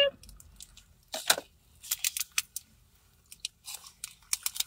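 Close-up mouth sounds of people chewing soft mochi rice cakes: scattered wet smacks and clicks in a few short clusters.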